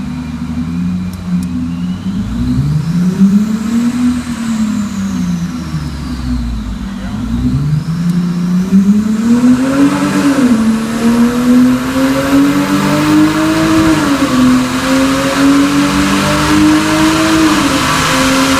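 Lexus IS300's 3.0-litre 2JZ-GE straight-six at wide open throttle with the automatic in manual mode: the revs climb and fall back once, then climb again and the transmission upshifts about ten, fourteen and seventeen seconds in, each a brief drop in engine pitch. A rising rush of tyre and roller noise runs under the engine as speed builds.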